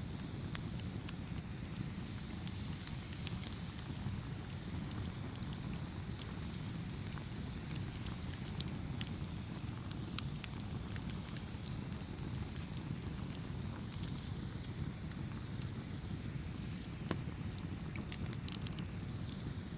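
Wood fire burning: a steady low rumble of flames with frequent sharp pops and crackles scattered throughout.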